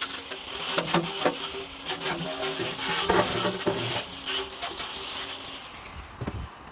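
Workshop hand work on metal parts: continuous rubbing and scraping, broken by frequent short clicks and knocks. It eases off and gets quieter near the end.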